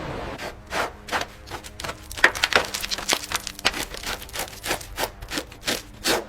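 Rough scraping or rubbing strokes, several a second and irregular, typical of hand work on a metal surface.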